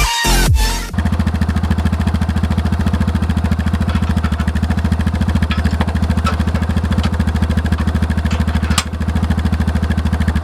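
Side-by-side utility vehicle's engine idling steadily with an even, rapid pulse. Electronic dance music cuts off about a second in.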